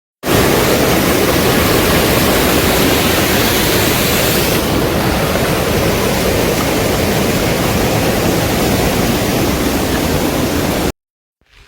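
Loud, steady rushing of water that starts abruptly, eases slightly in its hiss a little under halfway, and cuts off suddenly near the end.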